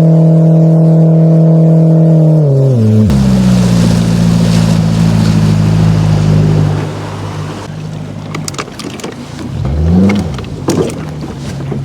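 A boat's outboard motor runs steadily at speed, then is throttled down about three seconds in and carries on at a lower, steady pitch with water rushing past. It quietens further partway through, then is briefly revved and eased back near the end.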